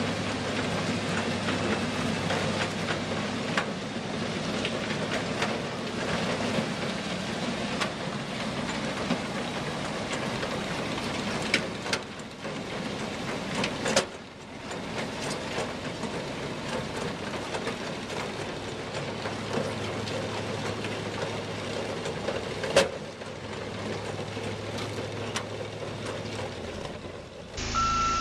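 Heavy machinery running, a steady engine din with scattered clanks and knocks, one sharp knock standing out near the end. In the last moment a truck's reversing alarm starts beeping.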